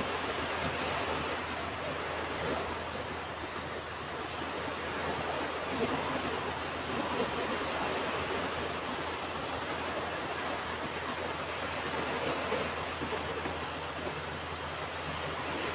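Ocean waves washing on a beach: a steady rush of surf that swells and eases a little, with no single wave standing out.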